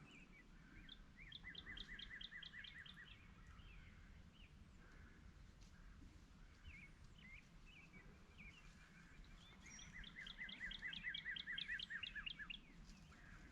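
A songbird singing faintly, two bouts of quick, evenly repeated high notes, the second longer, with scattered single chirps from other birds in between.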